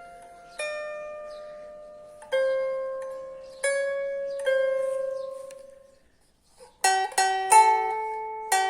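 Lyre being plucked: single notes that ring out one at a time, each left to die away. After a brief pause about six and a half seconds in, several notes are plucked in quick succession and ring together.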